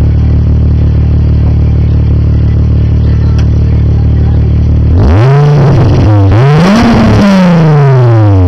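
Volkswagen Golf VR6 narrow-angle six-cylinder engine idling steadily, then revved twice about five seconds in. The second blip climbs higher and falls slowly back toward idle.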